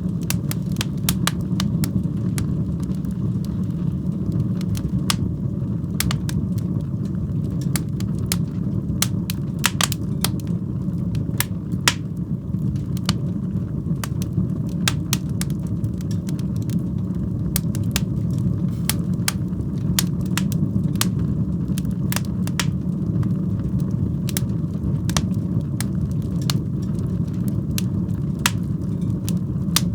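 Wood fire in a fireplace crackling, with frequent sharp pops over a steady low rumble of the flames.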